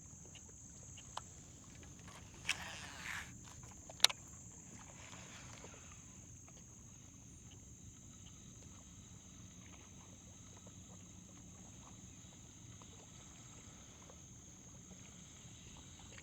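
Quiet marsh ambience: a steady high-pitched buzz, likely insects, under a faint low rumble. There are a few light knocks, and one sharp click about four seconds in.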